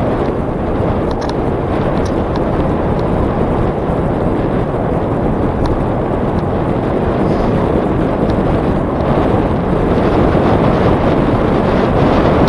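Wind rushing over the microphone of a camera riding on a moving bicycle, a steady roar of noise that grows a little louder near the end, with a few faint ticks about one and two seconds in.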